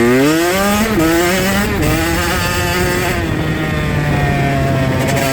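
Dirt bike engine revving up, its pitch rising through the first second, then running at a fairly steady speed while riding.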